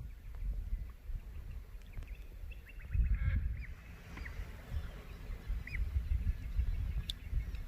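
Birds calling along the river: a few short calls that rise and fall in pitch, starting about three seconds in and again twice more, over a low rumble.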